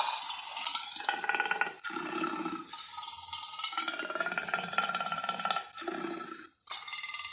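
Lion growl and roar sound effects: several rough, rasping calls one after another, broken by a short gap near the end.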